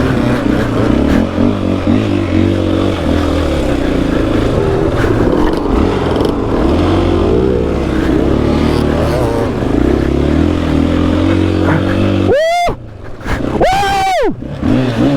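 Single-cylinder four-stroke KTM EXC-F 500 dirt bike engine pulling steadily under load up a steep hill climb. Near the end it drops off, then gives three short revs that rise and fall in pitch.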